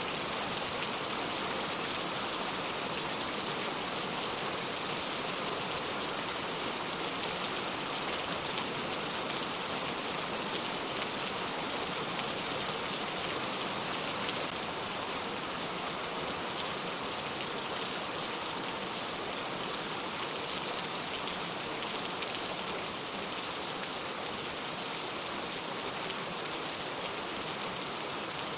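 Steady rain falling on the ground, a dense even patter of drops.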